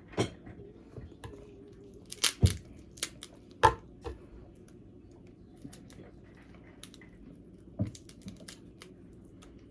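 Cooked blue crab shell cracking and snapping as the crab is broken apart by hand, in a handful of sharp cracks spread over several seconds; the loudest come a couple of seconds in.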